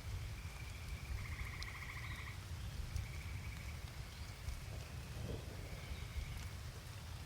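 Frog trilling in the rain: a short high trill at a steady pitch repeated about four times, the second one longest, over a soft hiss of rain and a steady low rumble.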